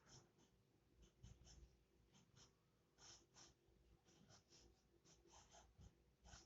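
Faint pencil strokes scratching on paper, short and irregular, a few each second.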